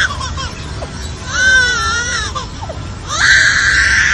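A bird giving crying, baby-like wails: a wavering call about a second and a half in, then a longer, louder, steady call from about three seconds in, with short faint chirps between them.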